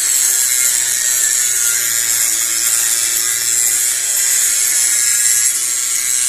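Metal being ground against a spinning grinding wheel: a steady, loud, high-pitched hiss with a faint hum underneath.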